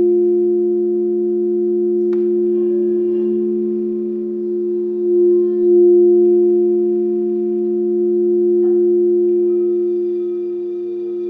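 Crystal singing bowls sounding several overlapping steady tones that swell and waver slowly. A light strike comes about two seconds in and another near nine seconds, and a higher, pulsing tone joins near the end.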